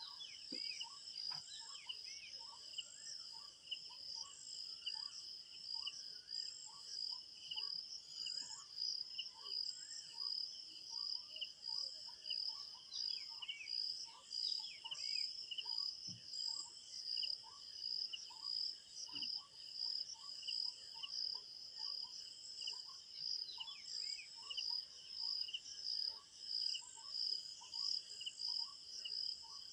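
Crickets chirping in a steady, pulsing chorus, with a lower short note repeating about once a second and a few birds calling now and then.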